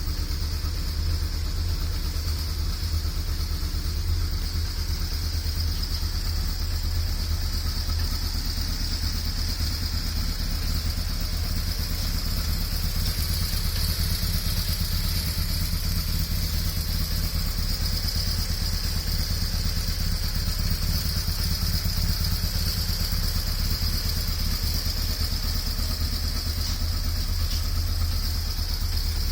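BMW R1100S's 1085 cc boxer twin idling steadily through an aftermarket Staintune stainless exhaust muffler, with a steady high hiss alongside.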